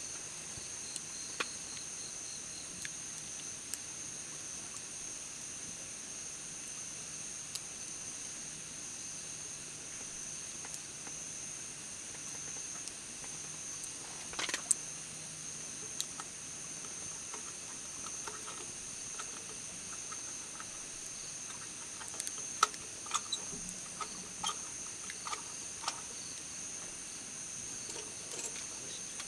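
Insects singing steadily in a continuous high-pitched drone, with scattered small clicks and knocks, most of them past the middle.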